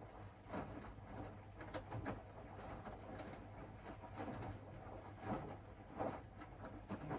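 Hoover DXOA610AHFN-80 front-loading washing machine tumbling its drum in the wash phase. The load and water swish over and over, irregularly, over a steady low motor hum.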